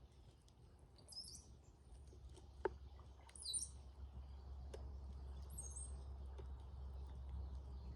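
Brown-headed cowbirds giving short, high, thin whistled calls three times, with a few sharp taps and a low steady hum underneath.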